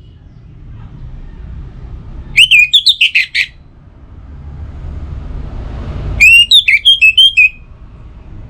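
Orange-headed thrush singing: two short phrases of rapid, warbled whistled notes, each about a second long and a few seconds apart. A low rumble runs underneath.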